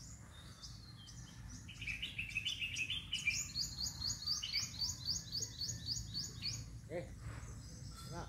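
Birds calling: a short run of quick mid-pitched notes, then a fast series of high repeated chirps, about six a second, lasting some three seconds.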